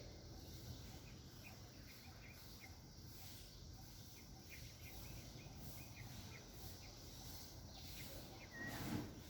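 Small birds chirping faintly and repeatedly over steady outdoor background noise, with one short falling whistled note and a brief louder noise near the end.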